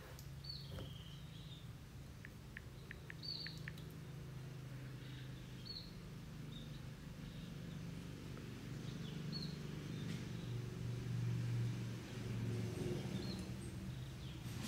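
Faint background sound: a small bird chirping briefly now and then, over a low steady hum that grows louder near the end. A few quick clicks come a couple of seconds in.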